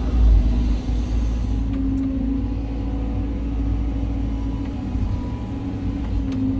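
Caterpillar 323 hydraulic excavator at work, its diesel engine running steadily with a deep rumble and a steady hum over it, a little louder right at the start.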